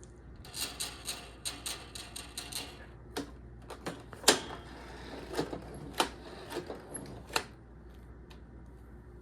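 A quick run of light clicks, about four or five a second, then a handful of separate, sharper clicks and knocks spaced out over the next few seconds, the loudest about four seconds in.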